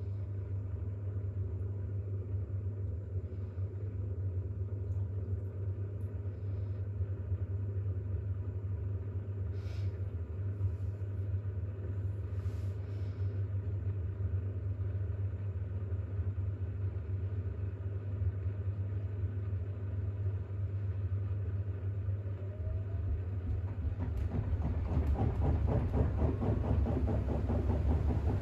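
Bosch WAX32GH1 washing machine spinning an unbalanced load of towels in its intermediate spin: a steady low hum. About 23 s in a rising whine comes in as the drum picks up speed, and the spin gets louder, with a fluttering rumble.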